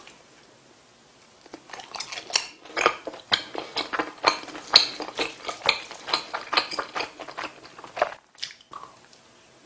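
Close-miked chewing of a mouthful of chewy rice cake (tteok) in spicy tteokbokki sauce, a dense run of sticky mouth clicks and smacks. The sound starts about two seconds in and eases off about eight seconds in.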